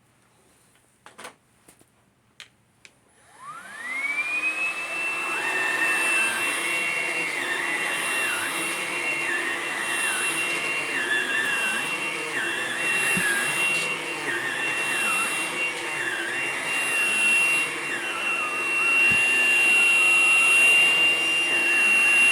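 A few clicks, then a Hoover Blade+ cordless stick vacuum switches on about three seconds in. Its motor spins up with a rising whine into a steady high whine, and a lower tone beneath wavers up and down every second or so.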